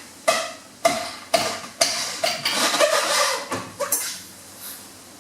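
Steel parts clanking and rattling: a run of sharp metallic knocks with a ringing tone, about two a second. They crowd into a clatter in the middle and then trail off.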